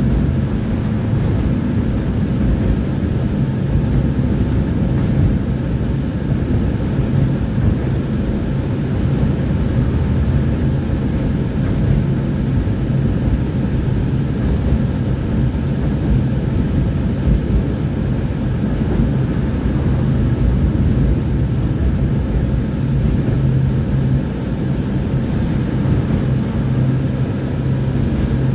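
Tram running along the line: a steady, loud low rumble of wheels and running gear on the rails, with an even hum throughout.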